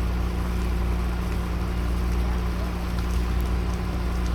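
A steady, low engine drone under a noisy rushing haze, with a few faint crackles.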